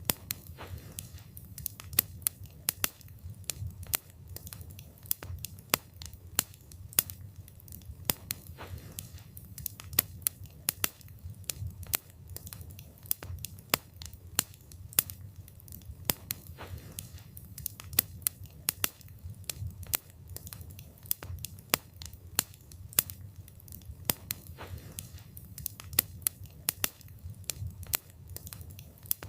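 Wood fire burning, the wood crackling and popping in irregular sharp snaps, often several a second, over a low steady rumble.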